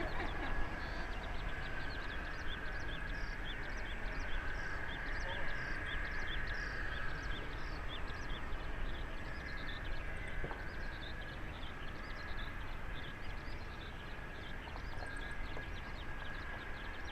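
Distant jet rumble of a departing Boeing 747-400F, slowly fading as it climbs away. Short high chirps repeat about twice a second over it through the first half, then thin out.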